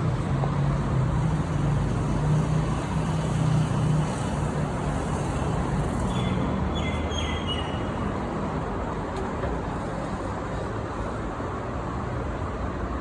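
Urban road traffic noise, with a steady low engine hum for the first few seconds and a few short high squeaks a little past the middle.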